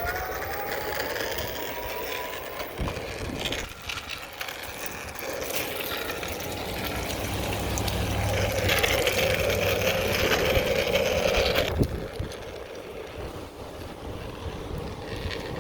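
Small electric motor under remote throttle whining, louder from about eight seconds in, then cutting off suddenly near twelve seconds.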